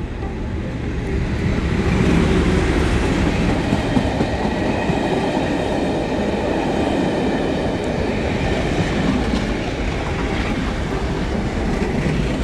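Class 37-hauled ultrasonic test train passing on the line: a steady, loud rumble of the train running on the rails.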